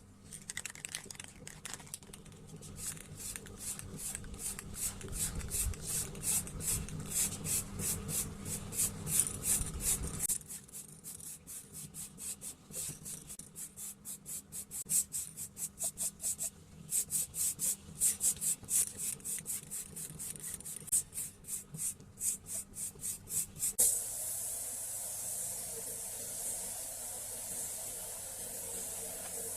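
A bicycle part being rubbed down by hand in quick back-and-forth abrasive strokes, about three a second. About 24 s in, the strokes give way to a steady hiss of spray.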